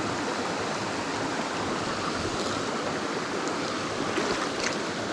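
A mountain stream rushing over rocks: a steady wash of water noise.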